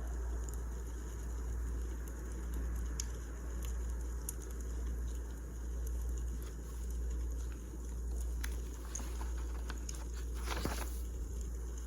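Wood fire crackling in a fireplace: a steady low rumble of flames with scattered small pops, and a louder burst of crackling near the end.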